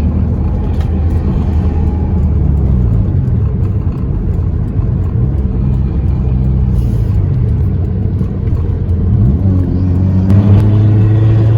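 Car engine running under way, its low drone shifting in pitch with the throttle, then rising and getting louder about ten seconds in as the car accelerates.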